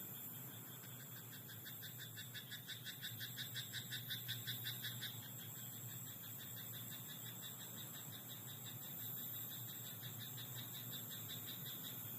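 A frog in a rice paddy calling in a rapid run of pulsed croaks, about five a second, growing louder and then stopping about five seconds in. Steady high-pitched chirring runs underneath.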